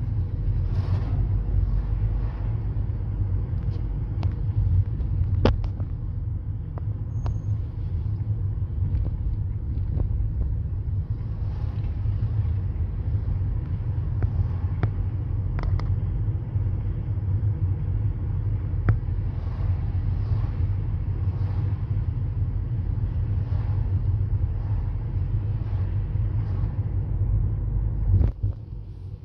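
Steady low rumble of a car on the road, with scattered light clicks and knocks; it dips briefly near the end.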